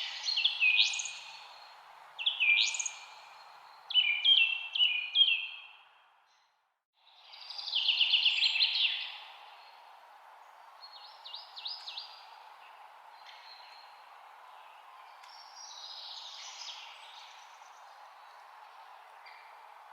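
Songbirds chirping and singing over a steady background hiss: short rising chirps close together at first, a loud rapid trill about eight seconds in, then fainter scattered chirps. The whole sound cuts out for about half a second just before the trill.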